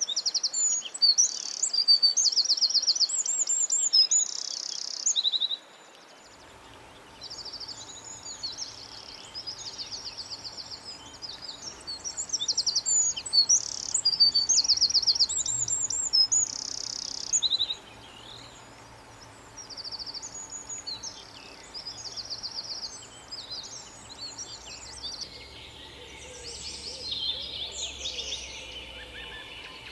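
Songbirds singing in rapid trills and chirps, loudest in the first few seconds and again midway, with softer, busier chirping from other birds toward the end.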